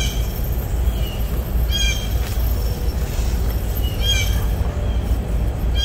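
A bird calling over and over, a short call about every two seconds, over a steady low rumble.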